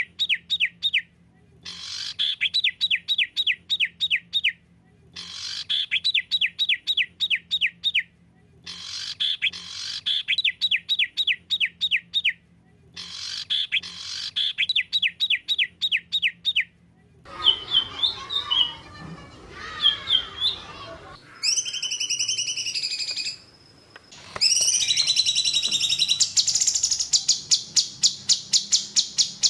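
Recorded songbird song. It starts as repeated bursts of rapid, sharp, evenly spaced notes, each burst lasting a few seconds with short silent gaps. After about 17 seconds it turns to varied chirps and calls, and from about 24 seconds it becomes a fast, continuous run of high notes.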